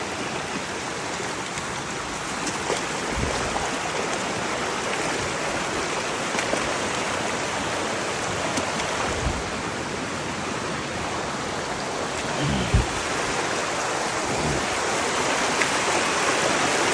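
Rain-swollen river rushing heavily: a steady wash of flowing water that grows a little louder near the end, with a few dull low thumps.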